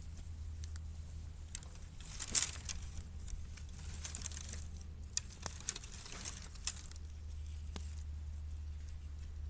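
Bamboo fire burning in a bottomless 18-litre square can: scattered sharp crackles and pops with a few short hissing bursts, over a steady low hum.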